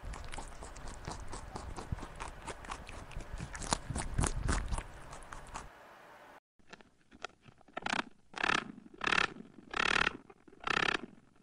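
A hare cropping and chewing grass: a dense run of crisp crunching and tearing clicks that stops after about six seconds. After a short gap comes a run of louder, short rushes of noise, a little under a second apart.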